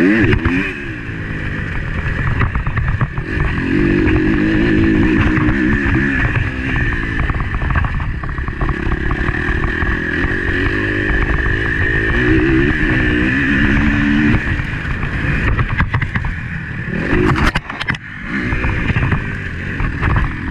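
Motocross bike engine heard on board, revving up and falling back repeatedly as the rider works the throttle through the gears, with steady rushing noise and rattling clatter over the track. The engine dips briefly about 18 seconds in, then picks up again.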